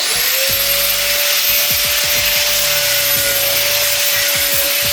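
Handheld electric power tool fitted with sandpaper, spinning up at the start and then running at steady speed with a constant whine, sanding rust off a cast-iron pot lid.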